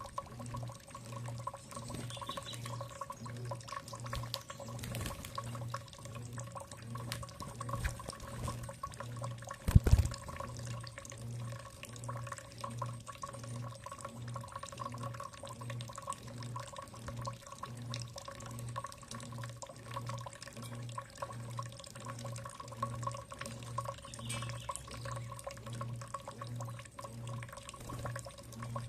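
Water dripping and trickling over a steady low hum that pulses a little more than once a second, with scattered small ticks. There are two faint bird chirps and one loud thump about ten seconds in.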